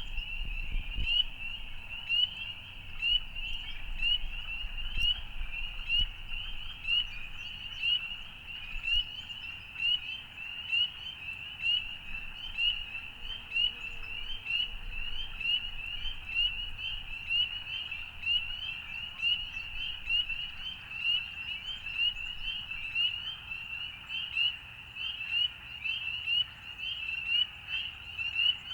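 A chorus of frogs calling: many short, rising, high-pitched peeps overlapping steadily, about two a second, over a faint low rumble.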